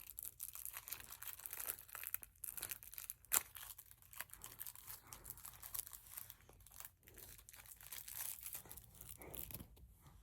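Packaging crinkling and rustling as it is handled, in many irregular crackles, with one sharp click about three seconds in.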